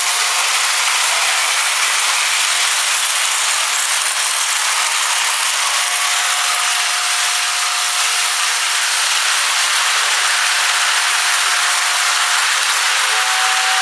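Lionel 6466 tender's motor-driven whistle blowing steadily: a loud, breathy whoosh of fan air through the horn, with a faint steady tone in it. The whistle is working again now that the bugs blocking the horn have been cleaned out.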